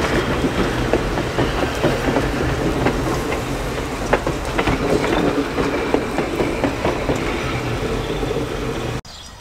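Steam-hauled passenger train rolling along the rails: a steady rumble with irregular clicks of the wheels over the track. The sound cuts off abruptly near the end.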